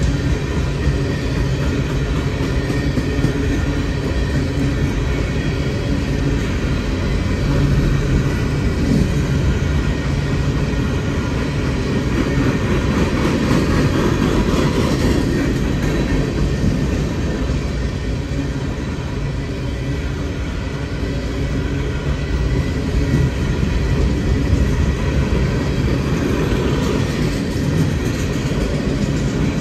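Empty coal cars of a freight train rolling past: a steady, continuous rumble of steel wheels on the rails.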